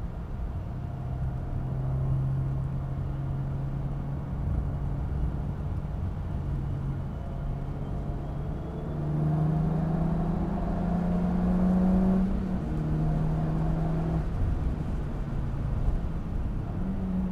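Car engine heard from inside the cabin at speed, a steady drone that climbs in pitch as the car accelerates about halfway through, then drops sharply a few seconds later.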